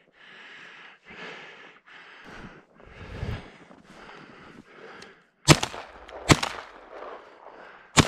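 Three shotgun shots fired at flushing ptarmigan, the first two less than a second apart and the third about two seconds later. Before them come footsteps in snow, about one a second.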